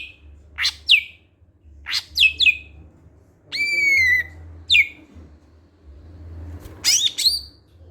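Cucak hijau (greater green leafbird) singing. It gives a run of short, sharp falling whistles, one longer held note about halfway through, and a quick burst of notes near the end.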